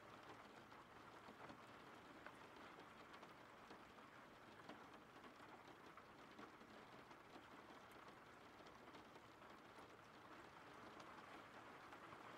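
Faint, steady rain falling, an even hiss of rainfall with scattered ticks of individual drops.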